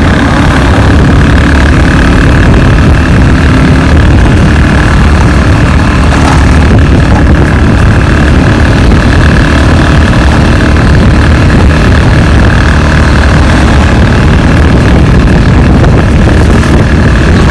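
Steady, loud rumble of a motor vehicle running on the road, unchanging throughout.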